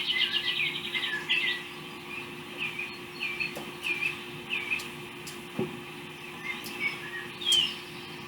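Small birds chirping: a quick trill right at the start, then a run of short, evenly spaced chirps about every half second, with scattered calls later. A faint steady hum lies underneath.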